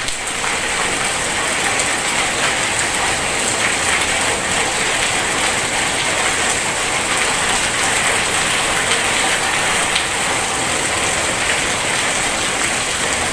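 Heavy rain falling steadily, a dense, even patter of countless drop impacts.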